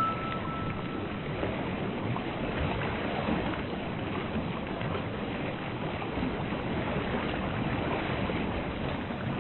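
Ocean water ambience: a steady, even rush of waves and water.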